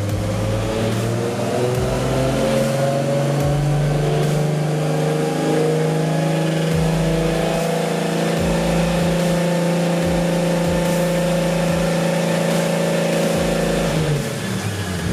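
Single-turbo RB26 straight-six in an R32 Skyline GT-R running under load on a dyno, its pitch climbing slowly and steadily for about fourteen seconds, then falling away suddenly about a second before the end.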